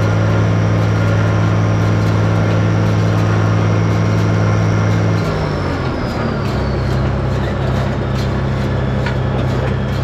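Tractor engine running under load while pulling a hay baler, its steady drone dropping in pitch about five to six seconds in, with a high whine sliding down along with it. Scattered clicks and knocks from the machinery follow in the second half.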